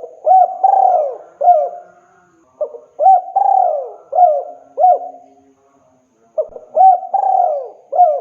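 Spotted dove cooing to call a female: three phrases a few seconds apart, each a run of short coos with one longer, falling coo in the middle.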